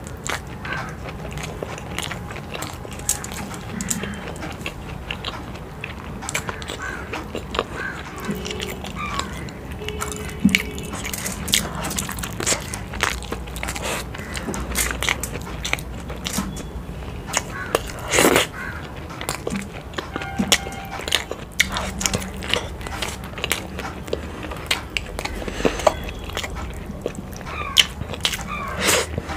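Close-miked chewing and wet mouth sounds of eating whole fried boiled eggs dipped in spicy egg curry, full of sharp smacking clicks, with one loud smack about two-thirds of the way through.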